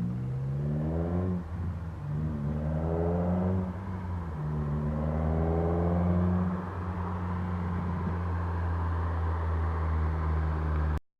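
K24/K20-swapped Honda Civic's four-cylinder engine through a Skunk2 70mm exhaust with a gutted catalytic converter, accelerating hard: the note rises in pitch in three pulls, dropping back at each gear change, then holds steady. The sound cuts off suddenly near the end.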